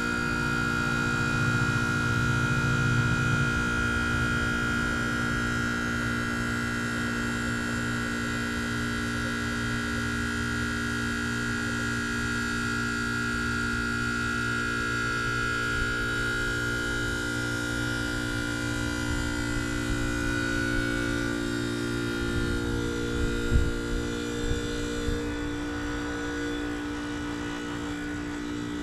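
2013 Trane XR13 2-ton heat pump running in its defrost cycle: a steady compressor hum with a high, siren-like whine that drops slightly in pitch about two-thirds of the way through. A few low thumps come near the end.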